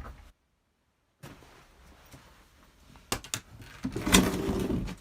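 A house door being opened: a few clicks, then a louder scraping push about four seconds in, as the door is held back by packed snow.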